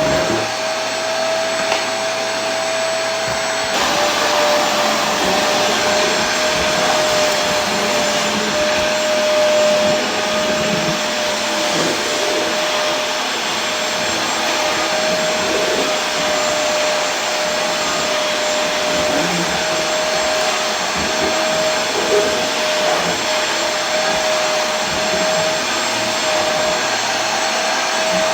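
Vacuum cleaner running steadily, a continuous rushing noise with a steady whine, its sound shifting slightly about four seconds in.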